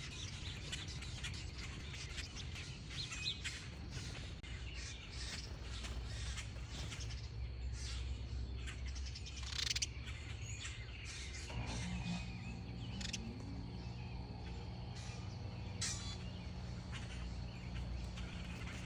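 Backyard birds chirping: many short, high calls scattered throughout. A low steady hum joins about two-thirds of the way in and continues.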